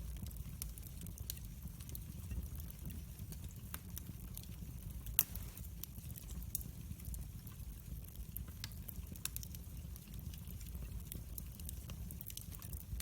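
Wood fire burning in a fireplace: a low steady rush of flame with irregular crackles and small pops, and one sharper, louder pop about five seconds in.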